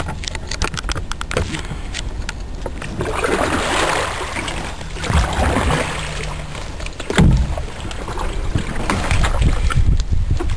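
Kayak paddle dipping and splashing in river water, with a low rumble throughout and a sharp knock about seven seconds in.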